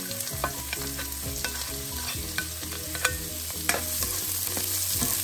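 Chopped onion sizzling in hot oil in a nonstick frying pan, with a plastic spatula scraping and clicking against the pan as the onion is stirred.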